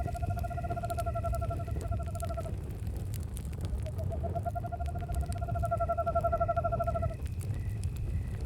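An owl gives two long trilling calls, each about three seconds, on one steady pitch with a short gap between them. Campfire crackle and crickets chirping run underneath.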